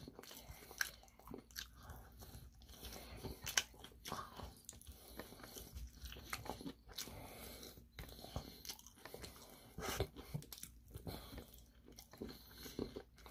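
Close-up crunching and chewing of crispy Korean fried chicken batter, with many short irregular crackles as the person bites and chews.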